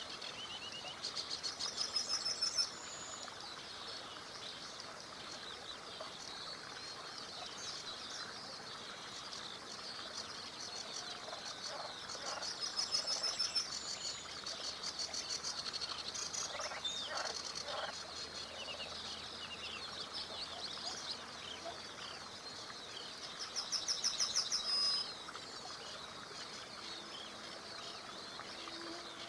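Songbirds singing by a small river: a loud, fast trill of repeated notes comes three times, about every eleven seconds, among softer chirps of other birds, over a steady faint hiss of flowing water.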